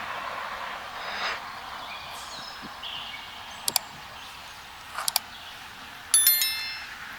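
Wild birds chirping, over a soft hiss of breeze that fades in the first few seconds. There are a few sharp clicks around the middle, and a louder harsh, buzzy call about six seconds in.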